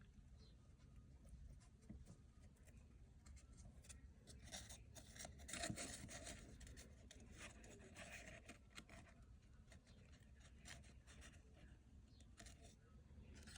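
Near silence with faint rustling, scraping and light clicks of hands handling things, busiest from about four to nine seconds in.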